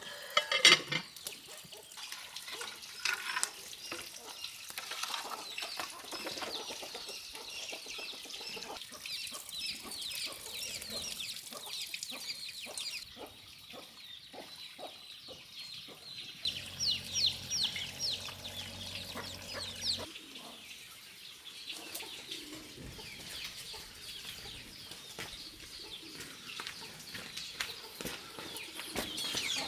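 Farmyard chickens, with many short, high, falling peeping calls throughout. A low steady hum comes in for a few seconds past the middle.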